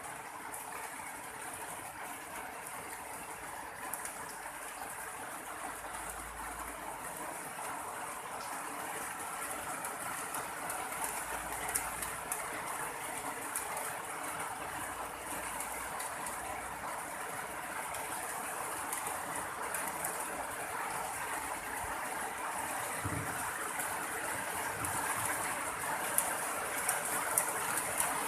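Rain falling steadily, gradually getting louder.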